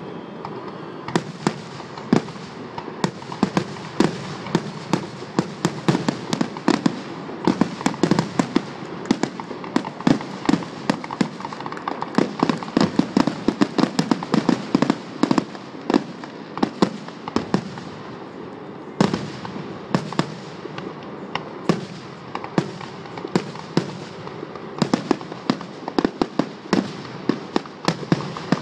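Fireworks going off in a continuous barrage: rapid sharp bangs and pops, several a second, over an unbroken crackling rush, with a brief thinner stretch before a fresh loud burst about two-thirds of the way through.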